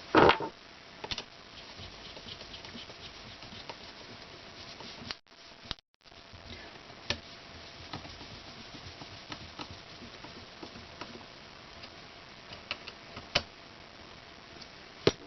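Scattered small clicks, taps and light knocks of parts and a hand tool being handled while a small solenoid valve is fitted and screwed down, with a louder knock right at the start. The sound cuts out briefly about five seconds in.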